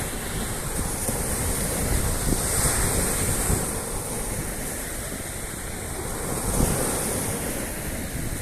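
Sea surf washing onto the shore, its hiss swelling and easing twice, with wind buffeting the microphone.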